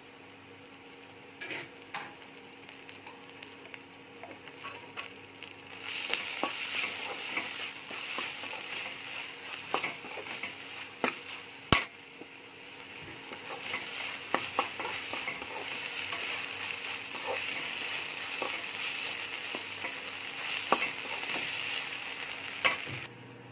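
Sliced onions, green chillies and ginger-garlic paste frying in oil in a kadai while a metal spatula stirs them, scraping and tapping against the pan. The sizzle grows louder about six seconds in and stops shortly before the end, with one sharp knock of the spatula near the middle.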